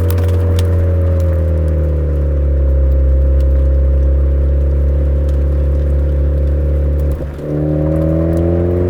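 Suzuki Swift Sport (ZC33S) 1.4-litre turbo four-cylinder running through a Fujitsubo exhaust, its note sinking slowly at first. About seven seconds in there is a brief dip for a gear change, and the note comes back higher and climbs steadily.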